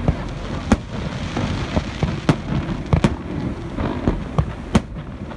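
Aerial fireworks shells bursting: sharp bangs at irregular intervals, about one or two a second, over a continuous rumbling background.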